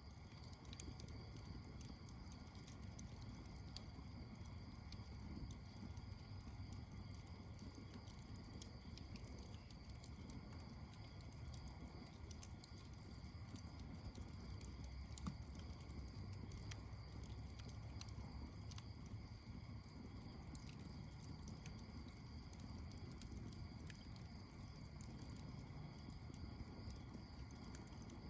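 Campfire crackling faintly, with scattered small snaps and one louder pop about fifteen seconds in, over a low rumble.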